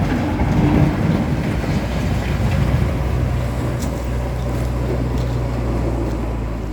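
Heavy diesel engine running, rough and louder for the first few seconds, then settling into an even low drone.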